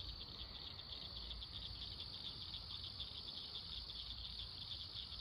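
Crickets chirping in a steady night chorus: a faint, high trill of rapid, even pulses.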